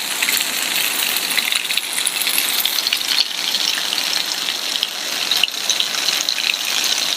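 Heavy rain falling steadily, an even hiss of drops with fine patters throughout.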